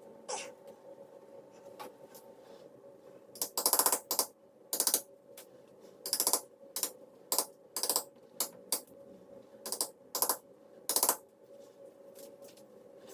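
Chisel chipping and scraping at the ceiling: about a dozen short, sharp, rasping strokes at an uneven pace, the loudest about four seconds in.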